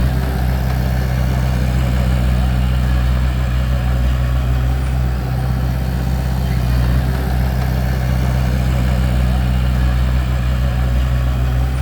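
Bulldozer's diesel engine running at a steady speed, a deep even drone with no change in pitch.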